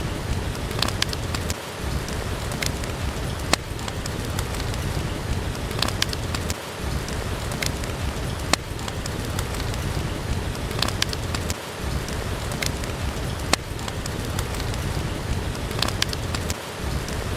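Steady rain with sharp crackles and pops from a wood fire. The same pattern of crackles repeats about every five seconds.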